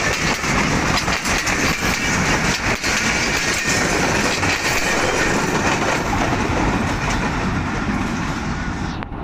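Freight wagons rolling past close by, steel wheels clattering in a quick, irregular run of clicks over the rail joints. The sound eases slightly near the end as the last wagon and brake van go by.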